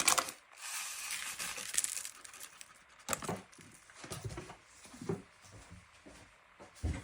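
A packet of kebab spice mix crinkling as it is torn open and emptied, with a steady crinkly rustle for about two seconds near the start, then a few short rustles and light knocks.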